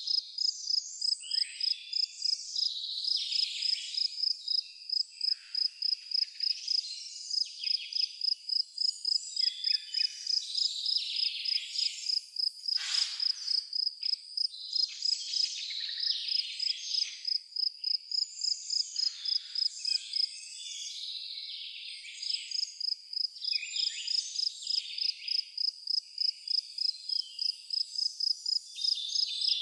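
A cricket chirping in an even pulsing rhythm, about three chirps a second, breaking off for a couple of seconds about two-thirds of the way through. Birds sing over it, with one louder call near the middle.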